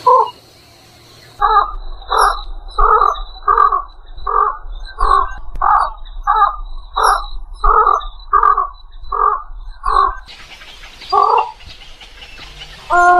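Egret calling: a run of about thirteen short calls at an even pace, roughly one every 0.7 seconds, then two more single calls after pauses near the end.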